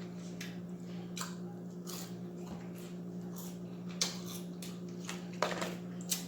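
Close-up eating sounds: scattered soft clicks and squishes of food being handled and chewed, over a steady low hum.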